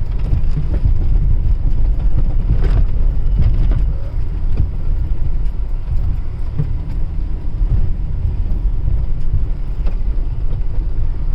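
SUV driving uphill: a steady low rumble of engine and road noise, with a couple of knocks about three seconds in.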